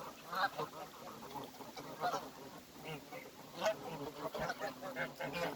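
A flock of geese honking in many short, overlapping calls, with ducks quacking among them; the loudest honks come about half a second, two seconds and three and a half seconds in.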